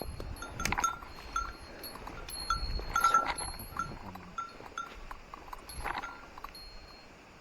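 A small metal bell ringing in short, irregular strokes, a dozen or so, each dying away quickly, with a few soft knocks among them.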